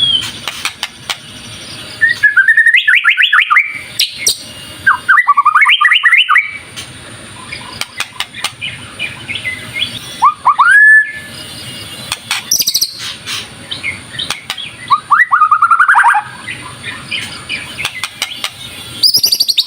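White-rumped shama (murai batu) in full song: loud, varied phrases of quick rising and falling whistles every few seconds, with softer chirps between them.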